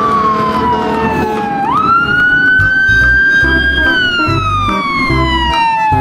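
Electronic fire-truck siren wailing: the pitch falls slowly, jumps up sharply about a second and a half in, then slides slowly down again. A steady beat thumps underneath.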